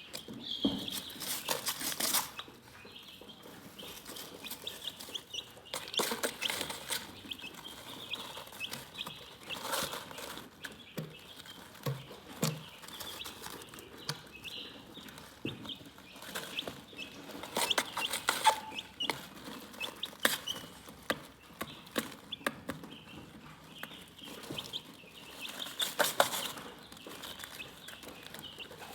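Chickens clucking and chirping: many short, high chirps with scattered sharp clicks, bunching into louder flurries every few seconds.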